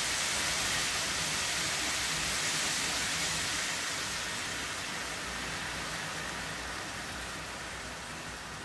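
Sliced pork and onions sizzling in a frying pan: a steady frying hiss that slowly grows quieter.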